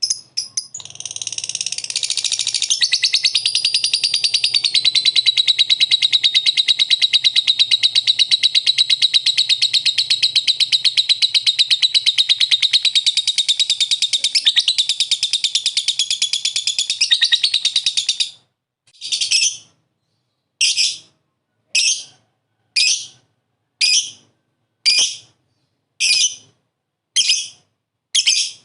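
Lovebird ngekek: a long, rapid, unbroken chattering trill lasting about eighteen seconds. It then breaks into separate short chirps, about one a second.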